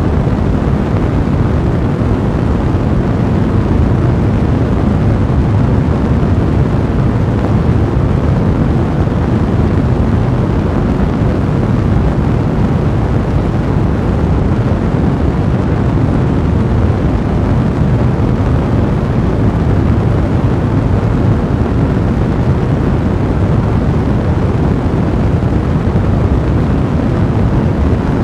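Fire blazing steadily: a dense, low rumble of burning flames with continuous fine crackling.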